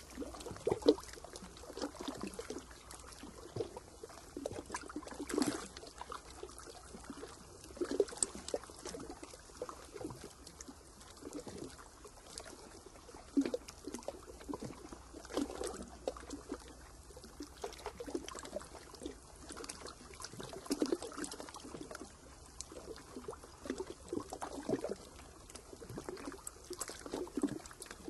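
Water lapping and trickling in small irregular splashes, about one every second or so, over a faint steady hiss.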